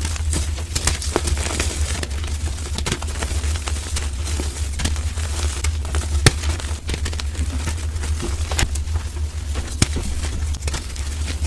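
Blocks of gym chalk being crushed and crumbled, a dense run of quick, irregular crunches and crackles, sped up to double speed, over a steady low hum.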